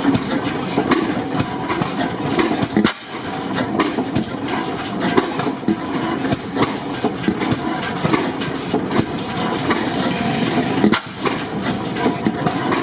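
Antique stationary gas engines running, a steady mechanical clatter full of sharp clicks, briefly dropping away twice.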